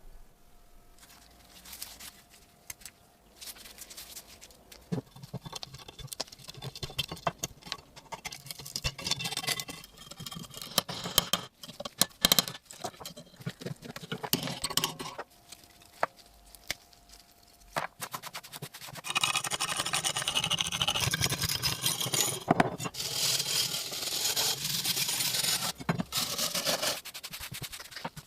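Hand-tool work on rusty metal: scattered clinks, knocks and short scrapes, then about two-thirds of the way in a longer run of steady, rasping scraping.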